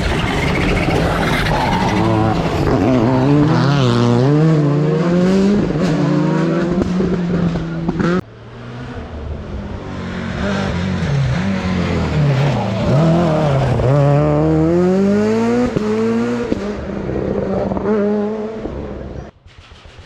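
Rally car engines at full effort on a stage, revving up and dropping back over and over through gear changes and braking as the cars pass. The sound is two passes in a row, split by a sudden cut about eight seconds in.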